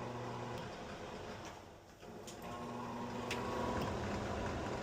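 Elica range hood blower motor humming, dying away about a second and a half in, then starting up again about two and a half seconds in, with a few sharp clicks along the way.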